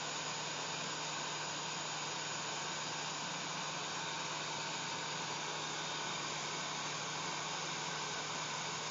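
Hair dryer running steadily: an even airy rush with a low steady hum under it, unchanging throughout.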